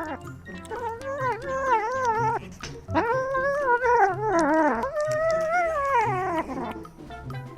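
A pet howling in three long, wavering calls that rise and fall in pitch.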